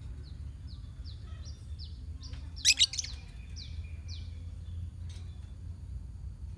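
A lovebird colony calling: a run of short, quick falling chirps, about three a second, with two much louder calls about halfway through, over a steady low hum.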